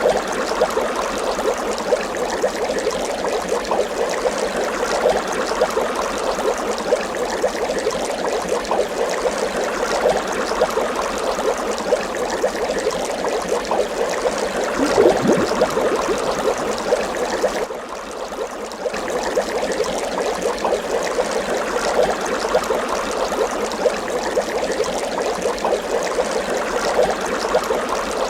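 Water bubbling continuously, a dense stream of small bubbles popping and gurgling, with one louder gurgle about halfway through.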